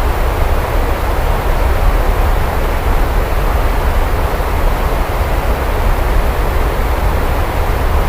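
Rain falling steadily: an even hiss with a constant deep rumble beneath it.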